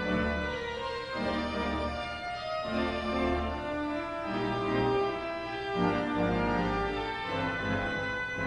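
Organ music: sustained chords over a moving bass line, changing about once a second, as a prelude.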